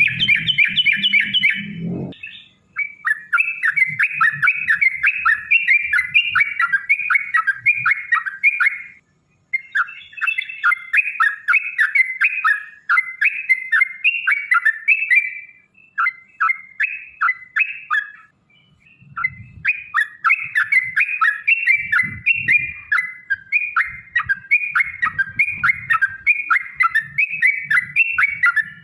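Yellow-vented bulbul (trucukan) singing a long, rapid chattering song, "ropel panjang", in runs of several seconds broken by brief pauses.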